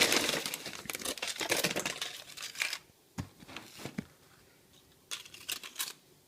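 Dense crinkling and rustling of snack packaging being handled for the first two or three seconds, then a few scattered taps and clicks.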